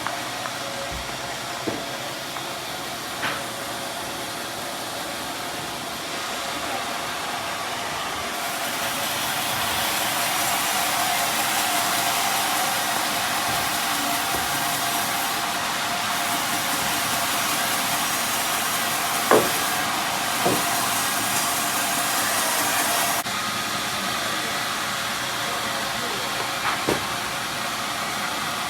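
Sawmill band saw running on a teak log, a steady machine noise with a constant whine. About eight seconds in it grows louder and hissier, then drops back suddenly near the end, with a few sharp knocks along the way.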